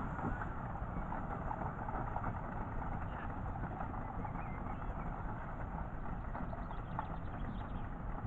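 Miniature railway train running along the track: a steady rolling rumble of wheels on rail.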